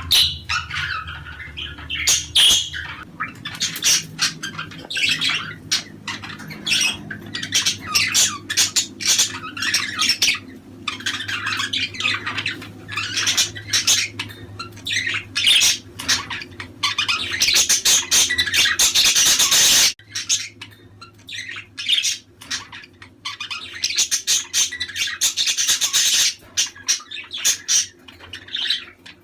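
A flock of budgerigars chattering and warbling, dense and continuous, with many short squawks and chirps. A low background hum under the birds stops suddenly about two-thirds of the way through.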